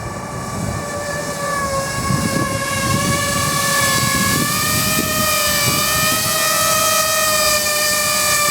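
Electric motors and propellers of a Walkera Avatar twin-rotor RC aircraft whining steadily in flight, getting louder over the first few seconds and rising a little in pitch about halfway through. Strong wind buffets the microphone with a low rumble underneath.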